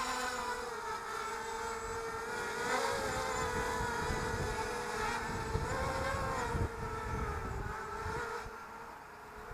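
ZMR250 mini racing quadcopter's brushless motors and propellers whining, the pitch rising and falling with the throttle, with wind buffeting the microphone underneath.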